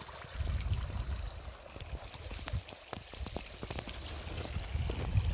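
Wind buffeting the microphone in gusts, with a run of small clicks and crackles in the middle.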